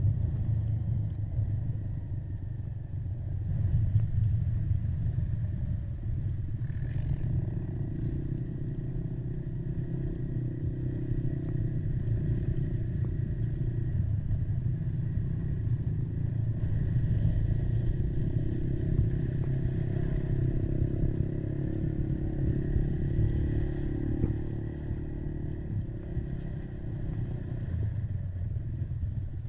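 Kymco Maxxer 300 quad's single-cylinder engine running steadily under way.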